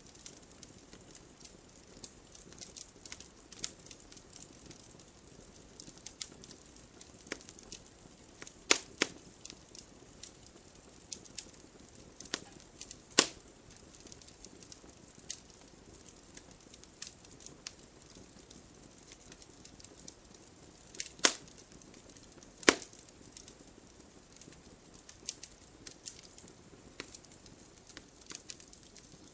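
Wood fire crackling: irregular sharp snaps and pops over a faint low hiss, with a few much louder pops, the loudest about 13 and 22 seconds in.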